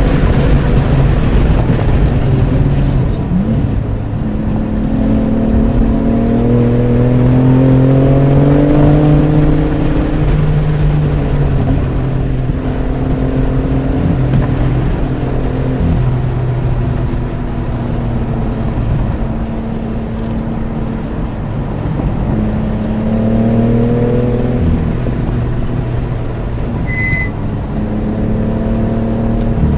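BMW F80 M3 Competition's twin-turbo inline-six engine working hard, its pitch climbing under acceleration, dropping off and climbing again several times. A short high-pitched tone sounds briefly near the end.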